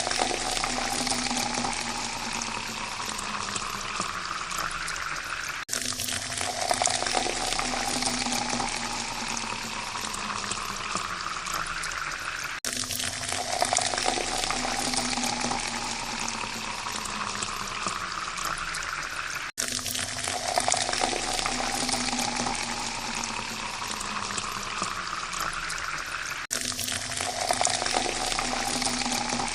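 Water poured in a steady stream into a glass, the note rising as the glass fills. The same pour repeats about every seven seconds, each restarting after an abrupt cut.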